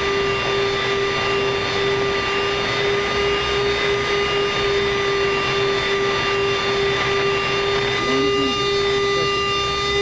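Boeing 737-300's CFM56 turbofan engines running steadily, a constant rushing noise with a fixed whine held on one pitch.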